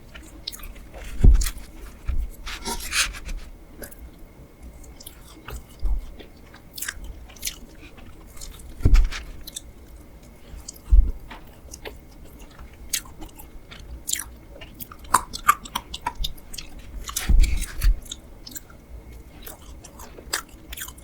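Close-miked mukbang eating sounds: a person chewing and biting a spoon-eaten layered ice box cake, with many sharp wet mouth clicks and a few soft low thumps.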